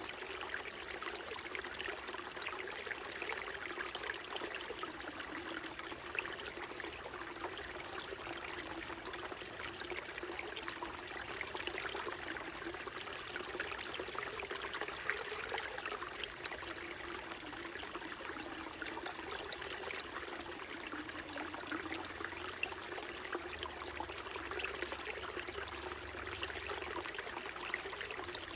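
Small mountain stream trickling and babbling over rocks, a steady rush of water with many small splashes and gurgles.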